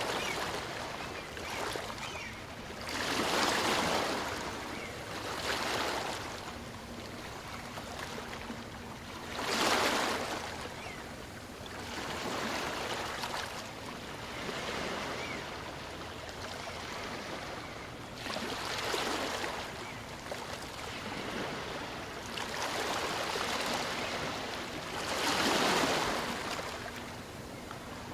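Small waves on a calm sea washing in and drawing back, each wash swelling and fading every few seconds, the strongest about ten seconds in and near the end.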